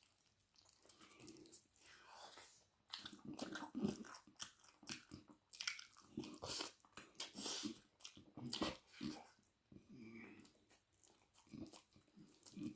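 Close-miked eating: chewing and biting into a meal of chicken wing curry, rice and raw onion, with irregular crisp crunches and wet mouth sounds several times a second.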